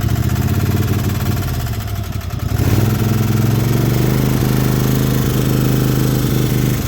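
Riding lawnmower's small engine running; it grows louder about two and a half seconds in, then runs steady.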